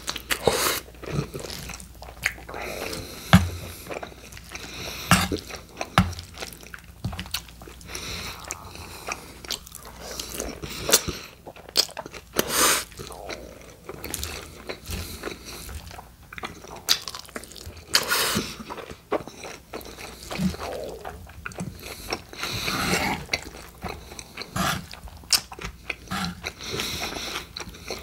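Close-up chewing of mouthfuls of steak burrito: wet, open-mouthed chewing and lip-smacking with many irregular sharp clicks.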